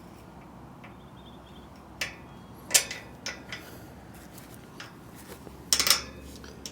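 Metal clinks and knocks of bolts and hardware against a steel tower section as a bolt is worked into place: a few sharp separate clicks, the loudest about three seconds in, and a short cluster of knocks near the end.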